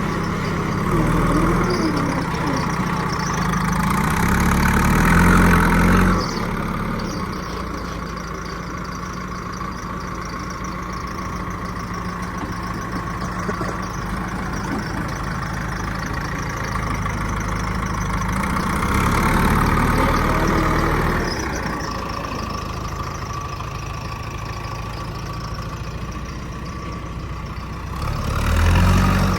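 Heavy diesel engine running steadily, rising in revs and load three times: a long push in the first six seconds, another around two-thirds through, and a short one near the end.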